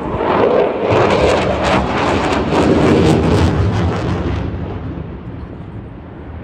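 Eurofighter Typhoon jet passing with a loud, crackling rumble from its two EJ200 engines, fading away after about four and a half seconds.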